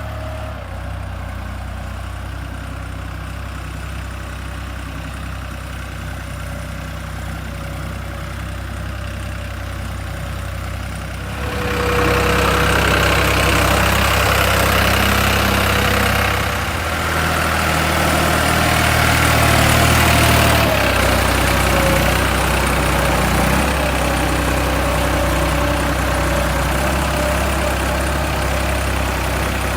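Tractor engine running steadily, getting noticeably louder about twelve seconds in and staying louder.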